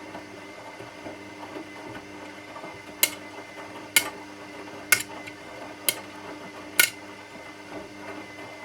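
Washing machine running with a steady hum, and five sharp clacks about a second apart in the middle.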